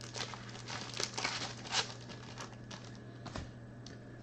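Plastic penny card sleeves crinkling and rustling as they are opened and pulled out, in short irregular rustles, over a low steady hum.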